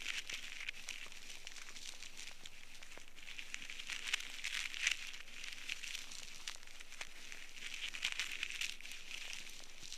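Ear-cleaning scraper working inside an ear canal: a dry, crackling scratch with small clicks, swelling and fading in uneven strokes.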